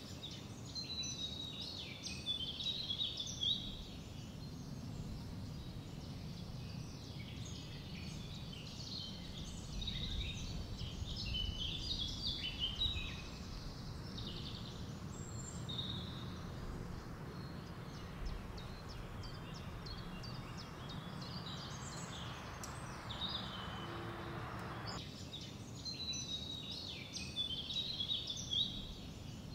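Songbirds singing in clusters of short, high phrases over a steady low background rumble. A faint hiss comes in partway through and cuts off suddenly about 25 seconds in.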